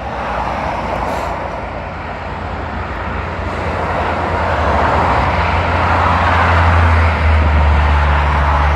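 Road traffic noise, a rushing of tyres with a low engine hum, growing steadily louder throughout.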